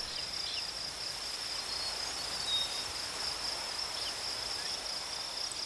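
Steady high-pitched trilling of insects, a cricket-like chorus, with a few faint brief chirps.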